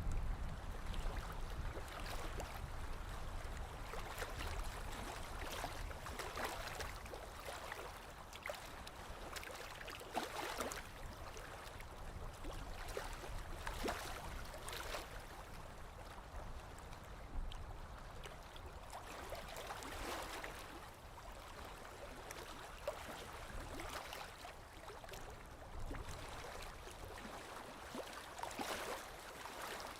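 Small lake waves lapping against the shore: soft, irregular splashes every second or few over a gentle wash of water.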